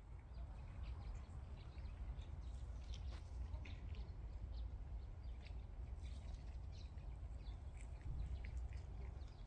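Small birds chirping, with short scattered calls throughout, over a steady low rumble.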